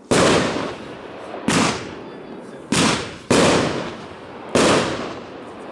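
Aerial firework shells bursting overhead: five sharp bangs a second or so apart, each trailing off in a long echoing decay.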